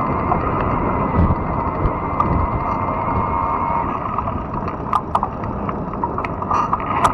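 Steady rush of wind and tyre noise from a fat-tire e-bike riding along a trail, with a few sharp clicks and rattles in the second half.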